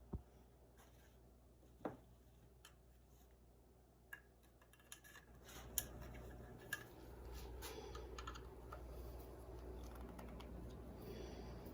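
Scattered sharp clicks and light knocks of small parts being handled while a Daisy 105 Buck BB gun is put back together. From about the middle on there is a faint, steadier scraping and rustling.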